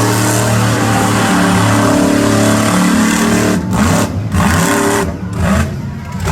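Monster truck engine running steadily, then dropping in level and breaking up several times over the last few seconds.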